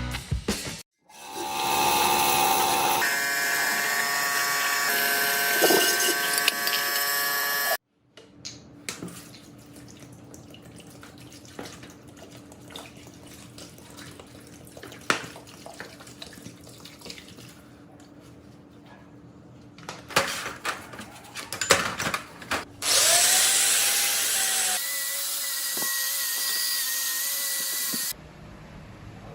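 Workshop tool sounds: a power tool runs steadily for several seconds, then comes a quieter stretch of small clicks and taps, a few louder knocks, and near the end another power tool runs steadily for a few seconds.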